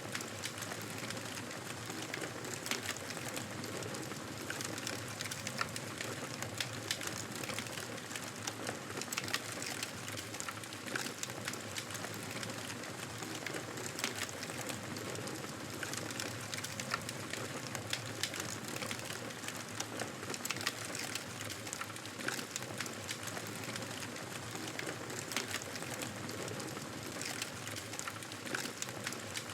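Wood fire crackling in a fireplace: a steady hiss with many small irregular pops and snaps.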